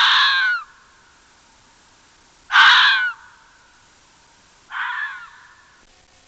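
An animal giving three loud, harsh calls, each under a second long and falling in pitch, spaced about two and a half seconds apart; the third is quieter.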